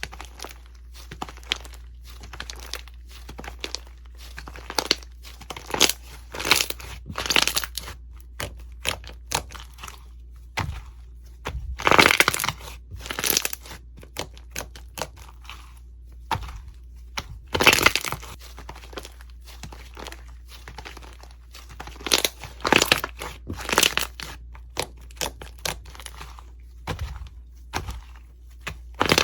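Crunchy slime being squeezed and pressed, giving irregular runs of crackling, crunching pops, with the densest bursts about twelve and eighteen seconds in.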